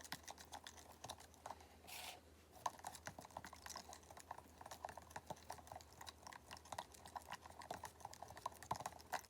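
Faint, rapid, irregular clicking and tapping of a utensil against a cup as glue and slime activator are slowly stirred together, the mixture still runny. A brief hiss about two seconds in.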